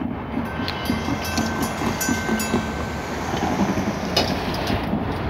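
Steady rumble of diesel locomotives approaching on the rails, with a car driving across the crossing close by at the start.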